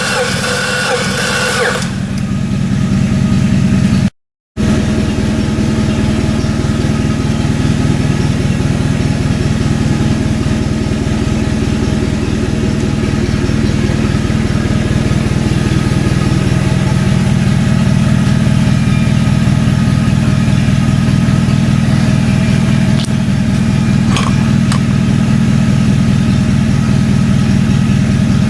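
Subaru EZ30 3.0-litre flat-six boxer engine idling steadily, with a brief dropout in the sound about four seconds in.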